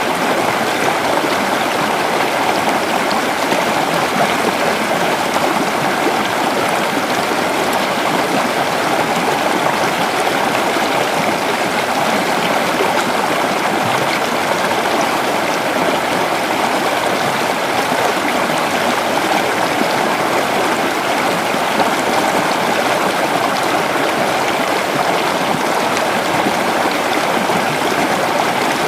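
A creek's running water, a steady, unbroken rush and babble.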